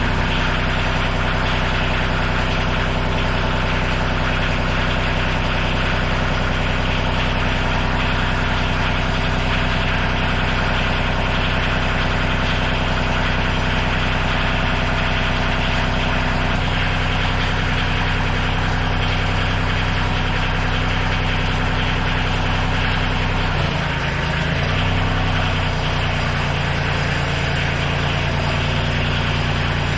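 Tractor engine running steadily, its tone shifting about halfway through and changing again more abruptly a little before the end, as the engine speed changes.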